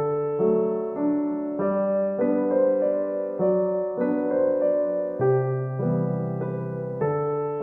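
Slow piano music: held chords with notes struck about once a second.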